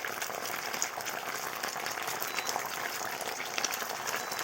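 Tomato sauce with garlic and ginger sizzling in a hot pan: a steady crackling hiss with scattered small pops.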